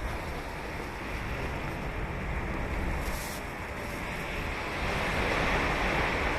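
Ocean surf washing onto the beach: a steady wash of breaking waves that swells louder about five seconds in as a wave breaks.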